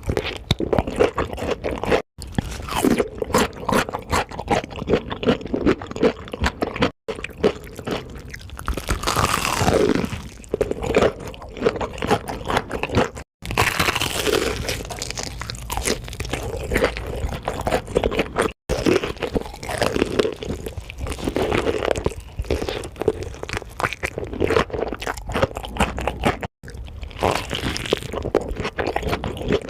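Close-miked crunching and chewing of crispy fried chicken, dense irregular crackles from bites into the fried coating. The sound drops out to silence for an instant about five times.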